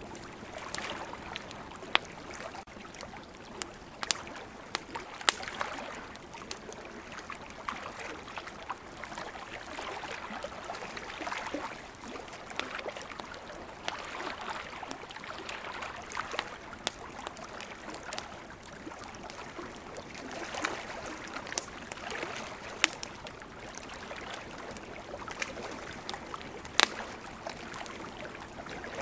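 Campfire crackling with scattered sharp pops, over a steady wash of ocean waves.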